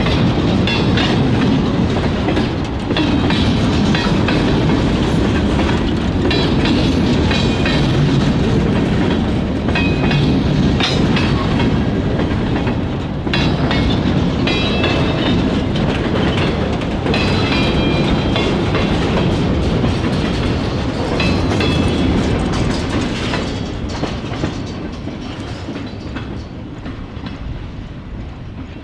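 Freight cars rolling past on jointed track: a steady rumble with wheel clicks and short high squeals. The sound fades over the last few seconds as the train moves away.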